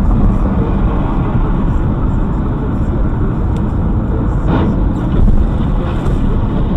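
A car driving, with steady engine and road noise. A brief, slightly louder noise comes about two-thirds of the way through.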